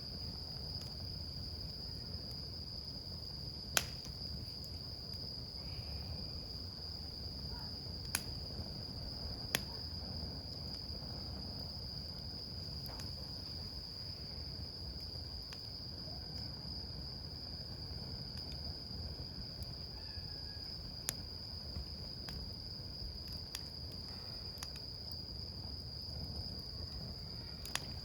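Wood campfire burning with a low steady rumble and a few sharp crackling pops, the loudest about four seconds in. Over it runs a continuous high, unbroken insect trill, like a cricket.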